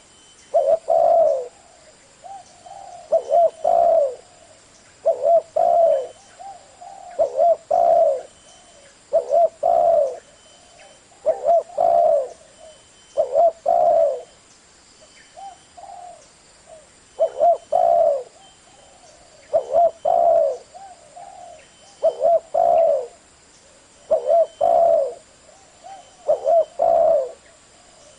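Spotted dove cooing: short phrases of two or three loud coos repeated about every two seconds, with softer coos between them.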